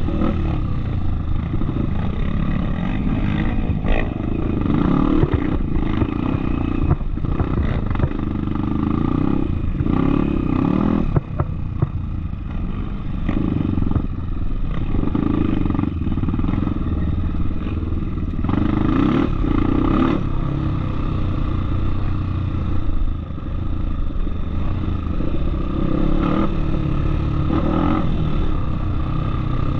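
Dirt bike engine running while riding a trail, the throttle rising and falling, with frequent knocks and rattles.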